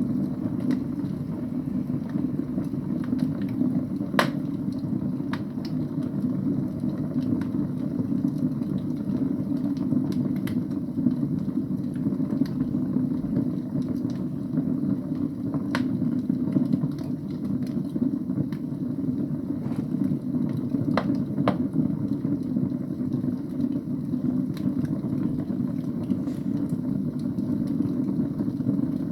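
Wood fire burning in a fireplace: a steady low rumble of flames with occasional sharp pops and crackles from the burning logs, the loudest about four, sixteen and twenty-one seconds in.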